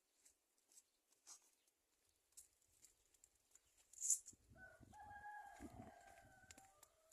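Rooster crowing once from a distance, a single long call of about two and a half seconds in the second half. A sharp click comes just before it, with faint scattered ticks earlier on.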